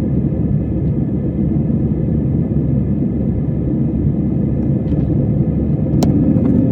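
Steady low cabin rumble of an easyJet Airbus A320-family jet's engines and rushing air, heard from a window seat, with a faint steady hum. There is one sharp click about six seconds in.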